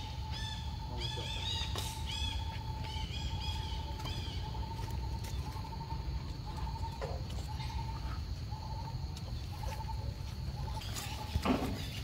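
Birds chirping: a run of short, repeated, arched high notes in the first few seconds, over a steady thin pulsing tone and a low background rumble. Two short, louder sounds come near the end.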